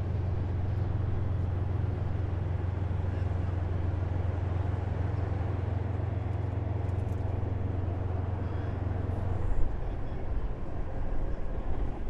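Heavy military vehicle engine running with a steady low drone. About nine and a half seconds in, the drone drops to a lower, uneven rumble, with a sharp loud peak at the change.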